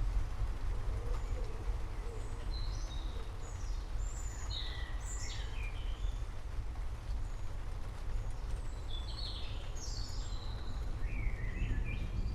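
Forest songbirds chirping: short quick notes sliding up and down, coming in little clusters, over a steady low rumble and an even hiss of rain.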